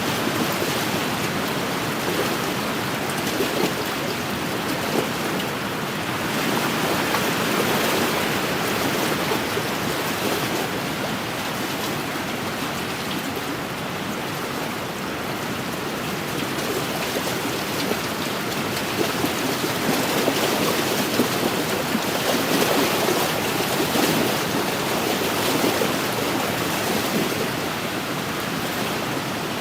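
Wind-driven waves lapping and splashing along the shore of an inland lake: a steady wash of water that swells and eases every few seconds.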